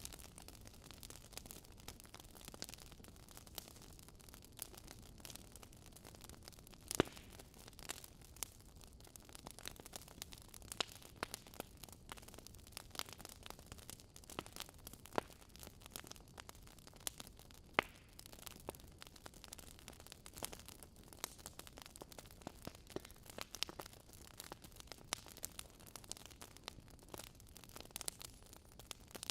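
Fire crackling: irregular sharp snaps and pops over a faint hiss, with a few louder snaps scattered through.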